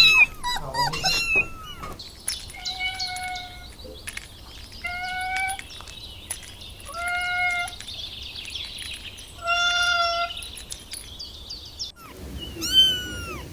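Cat meowing: quick, bending meows at the start and one near the end, with four long, even-pitched mews spaced about two seconds apart between them.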